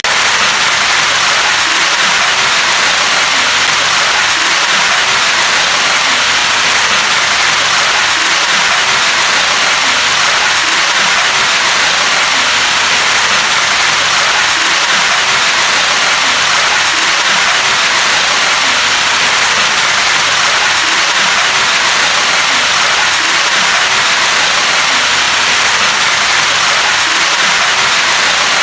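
Rain falling steadily: a loud, even hiss that does not change.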